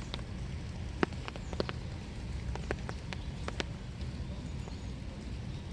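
Winter rain falling steadily, with scattered drops and drips tapping close by. The loudest tap comes about a second in.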